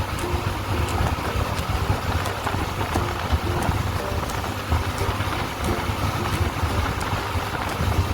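Motorcycle running at riding speed, with wind rushing over the microphone.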